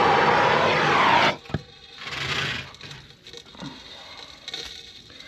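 Soldering torch flame running with a steady rush, its pitch dropping as the valve is closed, then cutting off about a second in. A brief hiss and a few small clicks and knocks follow.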